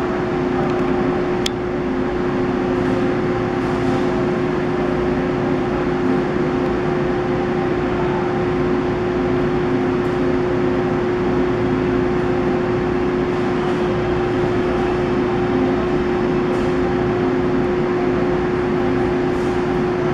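Commuter train slowly pulling into a station platform: a steady hum with a constant pitch over an even noise, unchanging throughout.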